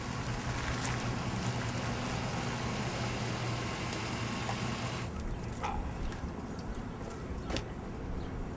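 A motor vehicle's engine running steadily, with a low hum; the sound changes about five seconds in.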